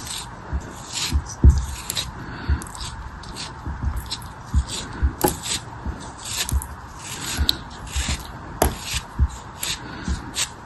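Repeated crisp crunching and scraping of a craft material being cut or crushed by hand, in irregular bursts a few times a second, with some dull low thumps among them.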